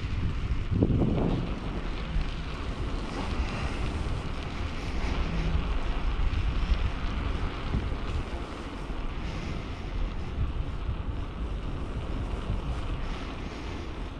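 Wind buffeting the microphone of a bicycle-mounted camera while riding, over the steady rolling noise of the bike, with a brief louder rumble about a second in.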